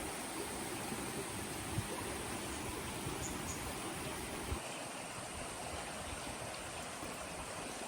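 Steady rush of a flowing stream, with a couple of faint knocks about two and four and a half seconds in.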